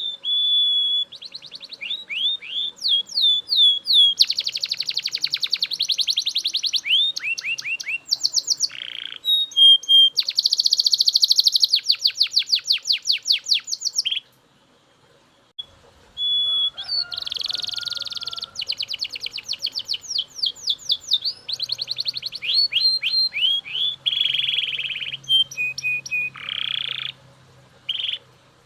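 Belgian canary singing loudly in a long run of fast trills and rolled phrases, with whistled notes between them. The song breaks off for a second or two about halfway, then starts again.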